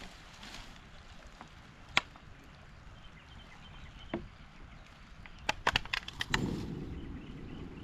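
Wood being handled in shelter building, giving sharp knocks and cracks: one about two seconds in, another about four seconds in, and a quick cluster near the end, followed by a dull rustling scrape.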